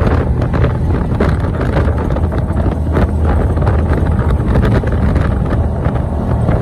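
Steady low engine rumble with wind buffeting the microphone.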